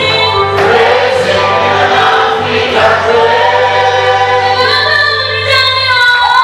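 Choir singing an African gospel song in several voice parts, with a low steady bass note underneath that drops out near the end.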